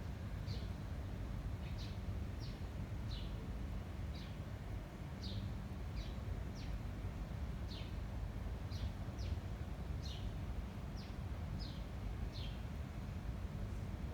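A small bird chirping over and over, short downward-sliding chirps about one every half second to a second, over a steady low rumble.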